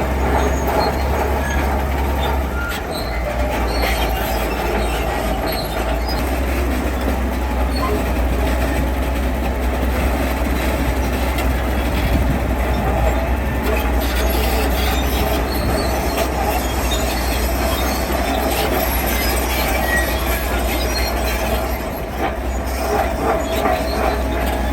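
Heavy diesel construction machinery running steadily under load, a continuous low rumble with metallic clatter and squeal.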